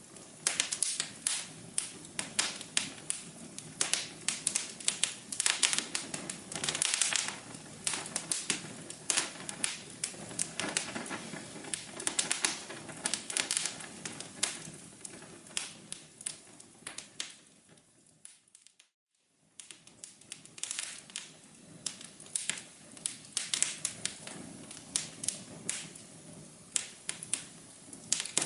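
Wood fire crackling with dense, irregular sharp snaps. Past the middle it fades out to a second of silence, then fades back in.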